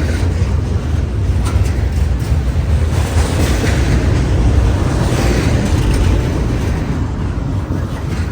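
Long CN intermodal freight train passing close by: a loud, steady low rumble of rolling cars on the rails.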